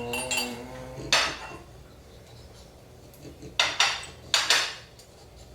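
Dishes and cutlery clattering as tableware is set down and handled: one sharp clink about a second in, then a quick cluster of four clinks and knocks between about three and a half and five seconds.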